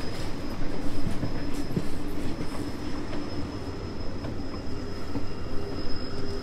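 Passenger train in motion: a steady rumble of wheels on track, with a thin steady high whine and a few faint clicks over it.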